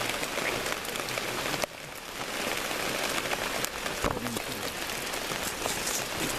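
Rain falling steadily, a continuous hiss with many individual drops ticking close by. The hiss drops away suddenly for a moment about a second and a half in.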